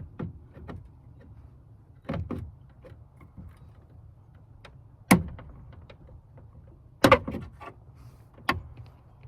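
Wire cutters snapping and cracking as they cut a channel, a handful of sharp, irregular snaps and knocks, the loudest about five and seven seconds in.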